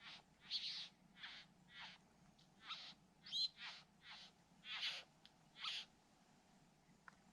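A bird giving a series of about nine short, harsh, rasping calls, roughly two a second, one with a brief rising whistle in the middle, stopping about six seconds in.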